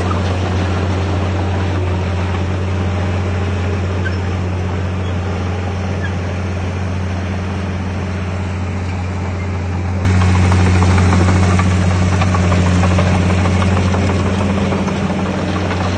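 Heavy diesel engine of earthmoving machinery running steadily with a low drone. About ten seconds in, it suddenly becomes louder.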